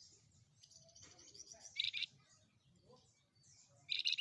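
A flamboyan songbird calling: a soft, high, thin twittering, then short, loud, rapid trills about two seconds in and again near the end.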